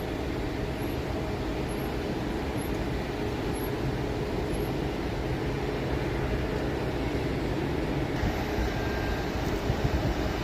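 Steady low rumble of jet airliner engines, with a faint hum running through it.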